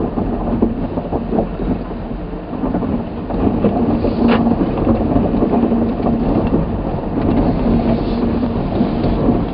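Steady rumble and crunch of a car's tyres rolling slowly over packed snow and ice.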